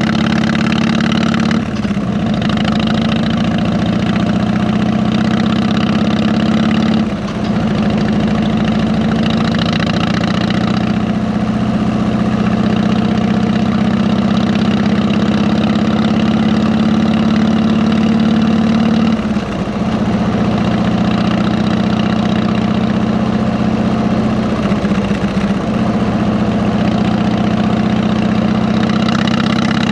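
Harley-Davidson Electra Glide's V-twin engine with 33-inch fishtail exhausts, running steadily with a deep, even note. It has brief dips about two, seven, nineteen and twenty-five seconds in.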